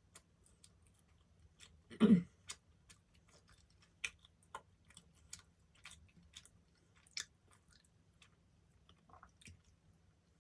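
Close-miked chewing of soft dessert bread: scattered wet mouth clicks and smacks, with one louder, brief mouth sound about two seconds in.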